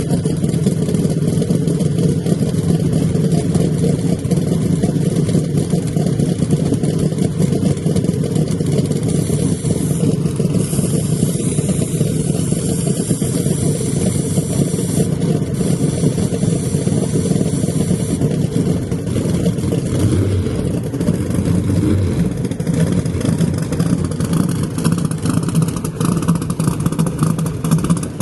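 Loud drag car engine running steadily, with a constant low engine note throughout and no large rise or fall in revs.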